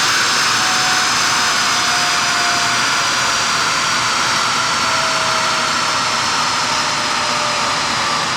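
Ferrari 458 Spider running on a chassis dynamometer: a loud, steady rushing drone with thin whining tones that slowly fall in pitch.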